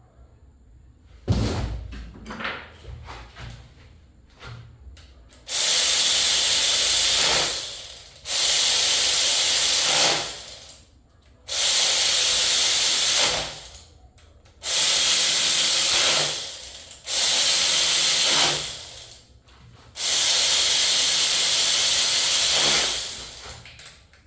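A knock and some light clatter, then six long blasts of pressurised spray hissing, each two to three seconds, with short pauses between them.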